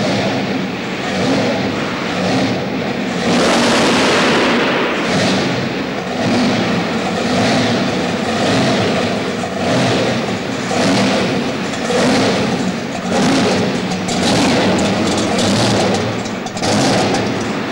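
Supercharged, fuel-injected V8 of a Chevrolet Camaro drag car running and revved in repeated short blips, about one a second, with a longer rev a few seconds in.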